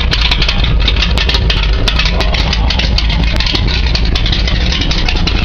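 Oldsmobile 455 V8 in a Cutlass running loudly and steadily at idle, a deep low rumble with many sharp crackles over it.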